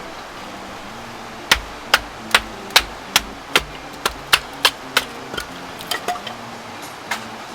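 Repeated hammer strikes, about two and a half a second for a few seconds, then slower and weaker taps. Soft background music with low held notes plays underneath.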